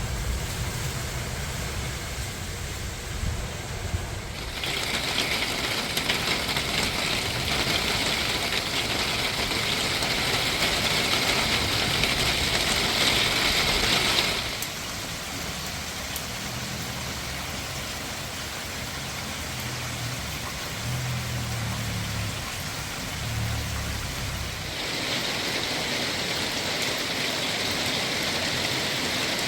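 Rain falling steadily, heavier and hissier in two stretches, with a low rumble underneath in between.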